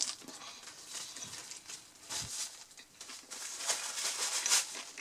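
A person chewing a mouthful of burger close to the microphone: irregular soft, crackly mouth noises that grow busier over the last two seconds.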